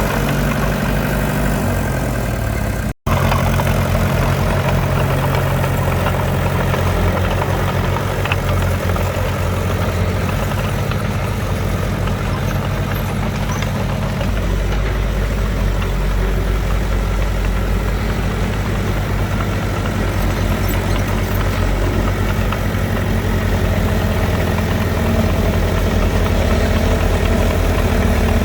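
Heavy diesel engine of an earthmoving machine running steadily at a low, even speed. The sound drops out for an instant about three seconds in, then carries on.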